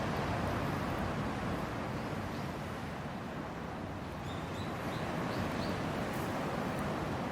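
Hardwood campfire burning in a Picogrill-style fire stand: a steady rushing hiss of the flames, with a few faint high ticks about halfway through.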